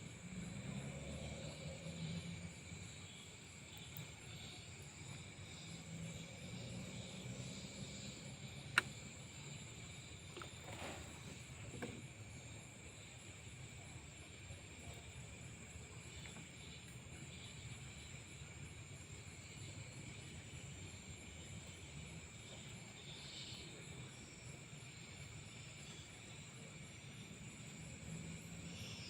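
Night insects such as crickets calling in a steady, unbroken chorus, under a low murmur of water and handling noise, with one sharp click about nine seconds in.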